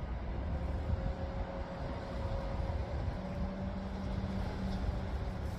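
Electric multiple-unit passenger train pulling away from the station: a low rumble with a faint steady hum, joined by a lower hum about three seconds in.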